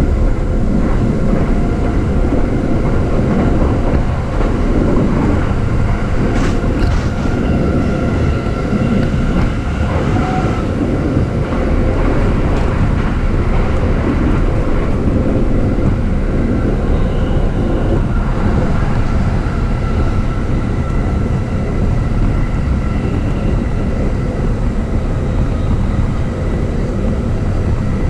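JR East E233 series electric commuter train running at speed, heard from inside the car: a steady, loud rumble of wheels on rail with faint steady whines. A few sharp clicks of the wheels over rail joints come around six to ten seconds in.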